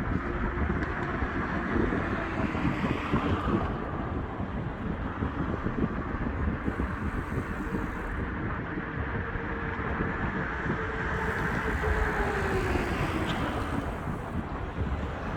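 Wind buffeting the microphone over a steady hum of traffic, with one engine tone that drifts and then falls in pitch about three-quarters of the way through as a vehicle passes.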